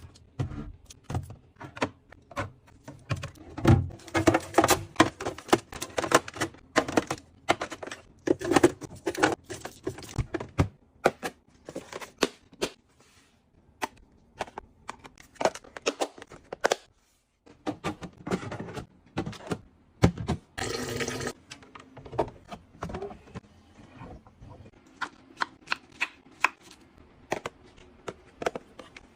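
Quick irregular taps, clicks and knocks of containers and items being handled and set down while a refrigerator is being stocked and arranged, with a short pause partway through and a noisier rustling stretch of a second or so about two-thirds of the way in.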